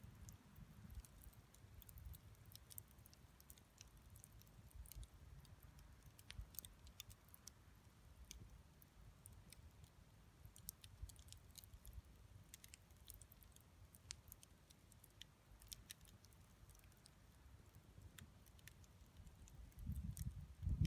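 Wood fire burning, faint: scattered sharp crackles and ticks from the burning wood over a low rumble. Near the end a louder low rumble swells in.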